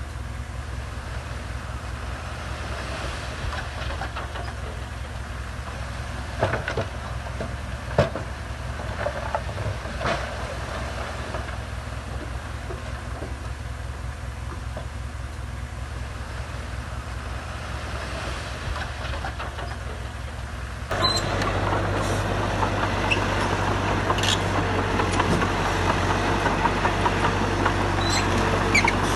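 Heavy diesel earthmoving machinery running steadily, with a few sharp knocks of metal and stone. About two-thirds of the way through it suddenly gets louder, with more clatter.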